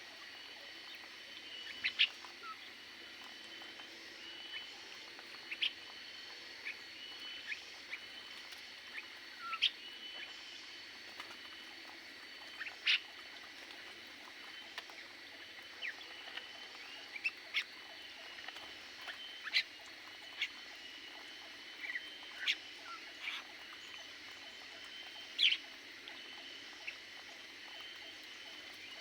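Aviary birds giving short, sharp chirps, scattered singly about every second or two, over a steady high-pitched hum.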